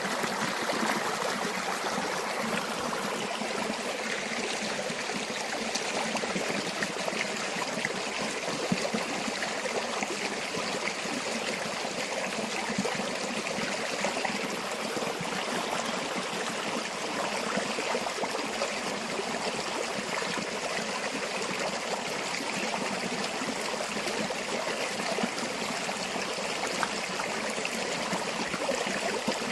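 A river or stream flowing steadily over stones, with an even rush and bubbling.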